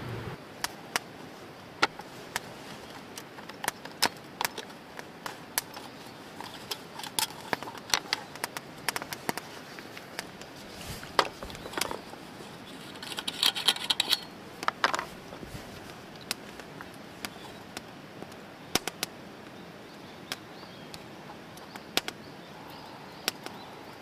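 Wood campfire crackling: irregular sharp pops and snaps, with a denser flurry of crackles a little past halfway.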